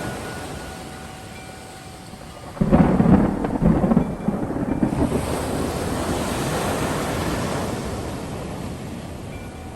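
A thunderclap breaks about two and a half seconds in, a loud low rumble that rolls on and slowly fades over the following seconds, over a steady hiss of rain. Faint wind chimes ring now and then.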